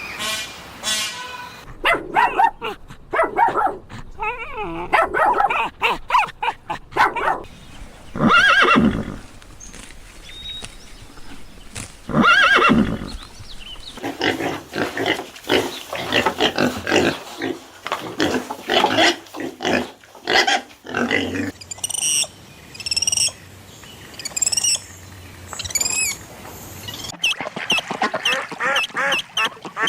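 Calls of several different farm animals one after another, some long and drawn out, others short and repeated.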